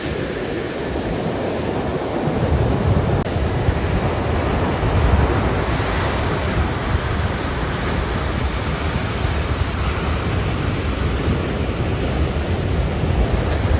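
Ocean surf from a typhoon swell breaking steadily on the shore, with wind rumbling on the microphone that gets heavier about two seconds in.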